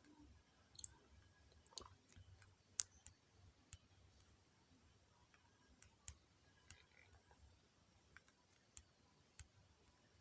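Near silence with faint, sharp clicks at irregular intervals, roughly one or two a second.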